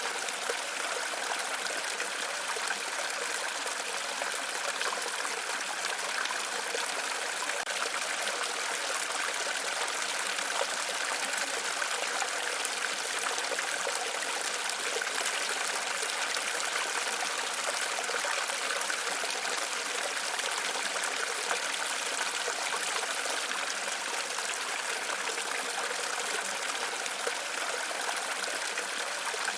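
Waterfall: falling water splashing steadily, a constant rushing hiss with no change.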